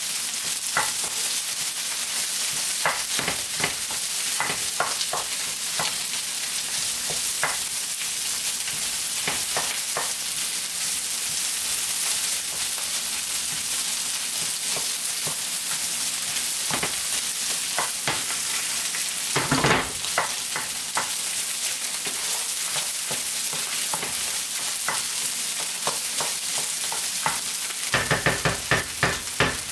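Soyrizo frying in coconut oil in a frying pan: a steady sizzle, with a wooden spoon scraping and tapping against the pan as the crumbles are broken up and stirred. A quick run of taps comes near the end.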